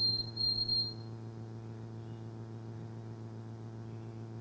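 Recorded white-throated sparrow song played over a loudspeaker: a clear, steady high whistle with a brief break, ending about a second in. A steady low electrical hum follows.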